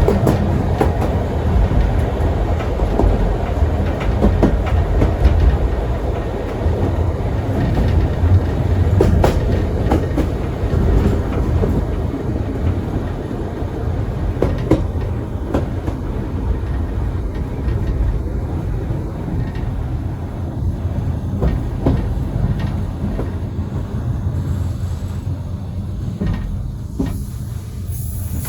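Historic steam train's carriages running on the track: a steady low rumble with scattered sharp clicks of the wheels over rail joints, easing slightly toward the end.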